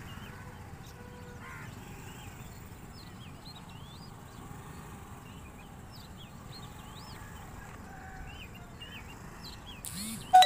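Small birds chirping again and again over a steady outdoor background hiss, with a sudden loud burst of sound right at the end.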